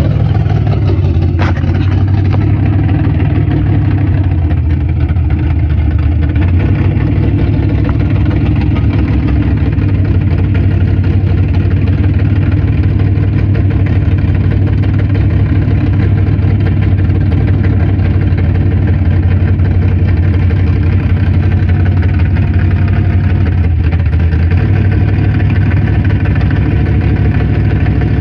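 Mud bog race truck's engine idling loudly at a steady, low pitch with a rough rumble.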